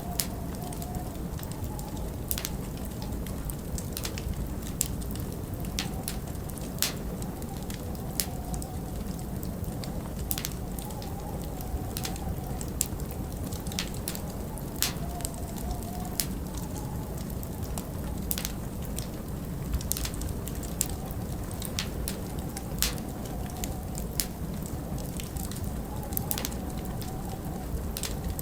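Log fire crackling, with sharp, irregular pops, over a steady low rush of wind that at times carries a faint wavering whistle.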